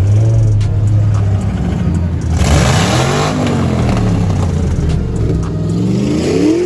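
A car engine idling, then revved: a sharp rev that rises and falls back about two and a half seconds in, and a slower rev climbing near the end.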